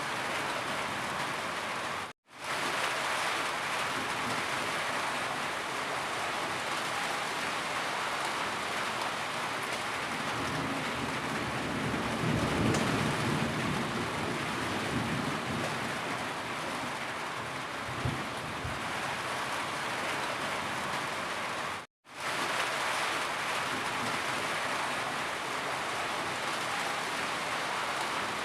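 Steady heavy rain falling, an even, dense patter. It cuts out to silence for an instant twice.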